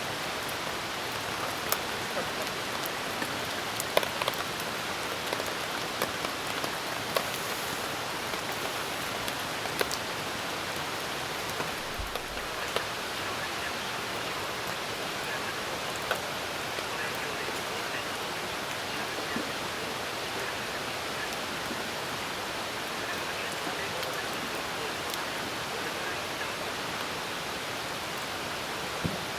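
Steady rain hiss with scattered sharp pops and crackles from a burning wood fire, most of them in the first ten seconds.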